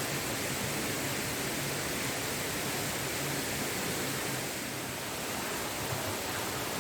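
Steady rushing of a waterfall, an even wash of falling water with no change in level.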